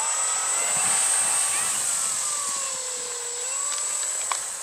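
Radio-controlled model aircraft engine in flight, its pitch sliding down to a low dip around three seconds in and then rising again as the plane passes and manoeuvres. A sharp click near the end.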